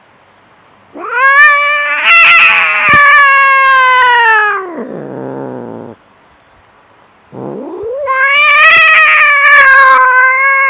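Cat caterwauling in a fight, with two long, drawn-out yowls: each rises at the start, holds a wavering pitch for several seconds, then drops away. The first starts about a second in and breaks off near the middle; the second begins a couple of seconds later and is still sounding at the end.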